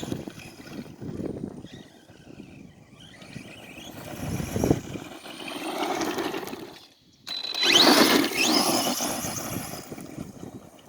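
Redcat RC truck driving, its motor and tyres making an uneven, fluctuating noise. About seven seconds in the sound briefly drops away, then comes back at its loudest with a rising whine as the motor revs up.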